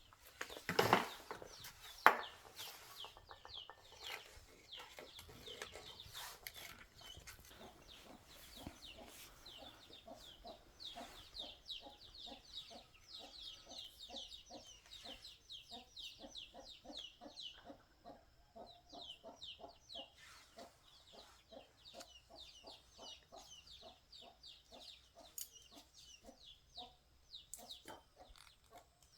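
Birds calling: a steady run of short low clucking calls several times a second, with many quick high chirps over them. A louder rustle in the first second and a sharp knock about two seconds in.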